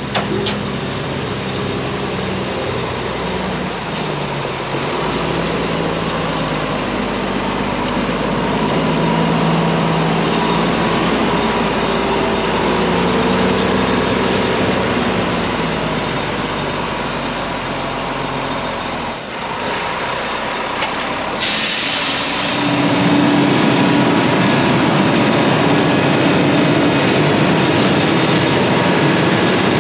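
Heavy diesel truck engine running, its pitch rising and falling, with a short hiss of air brakes about 22 seconds in; after that the engine runs louder and steadier.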